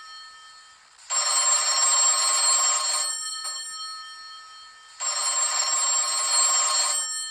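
Telephone ringing with a bell-like trill: one ring fading away at the start, then two full rings of about two seconds each, four seconds apart.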